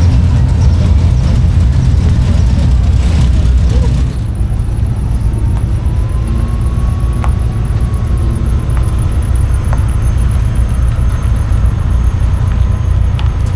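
A motor vehicle's engine running with a steady, loud low rumble, most likely one of the show trucks.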